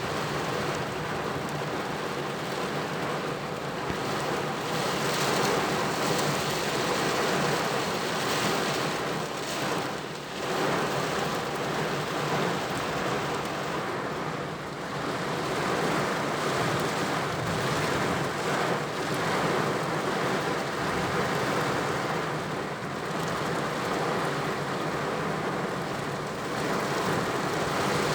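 Steady heavy rain beating on a car.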